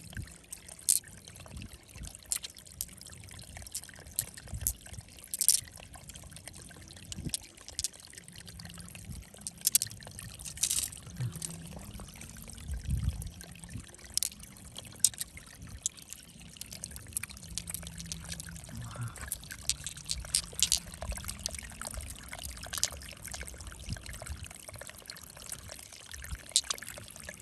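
Water pouring and trickling, with sharp clicks and knocks scattered irregularly throughout.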